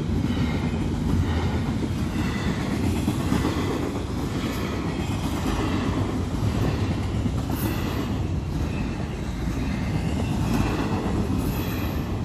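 Freight train's double-stack intermodal well cars rolling steadily past: a continuous rumble of steel wheels on rail, with faint high tones coming and going above it.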